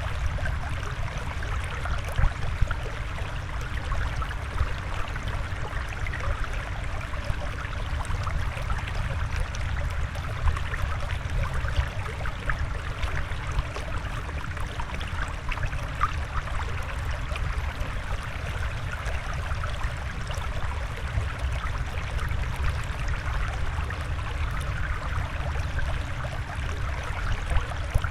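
Steady flowing, trickling water with a low rumble underneath and fine bubbling flecks throughout.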